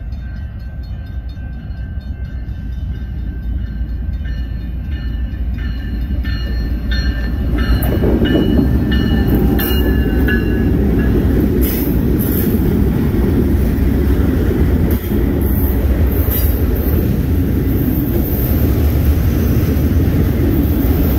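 A grade-crossing bell rings with a regular beat over a rising rumble as a Norfolk Southern GE GEVO diesel locomotive approaches. About eight seconds in the locomotive passes close and loud. Then autorack freight cars roll by with steady wheel-on-rail noise and a few sharp clanks.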